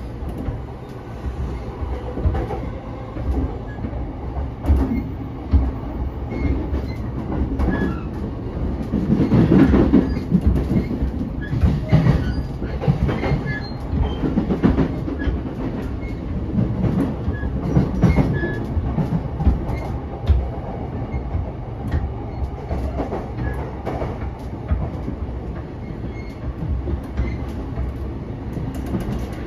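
Running noise inside a car of a JR East E233 series 0 electric commuter train: a steady rumble of wheels on rail with short clacks over rail joints, swelling louder for a few seconds about ten seconds in.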